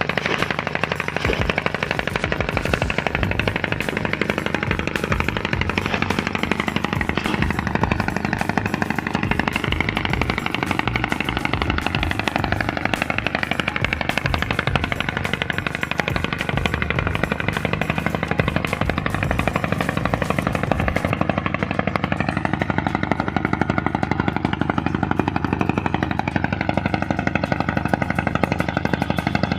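A motor running steadily with a rapid, even knocking, its pitch wavering slowly up and down.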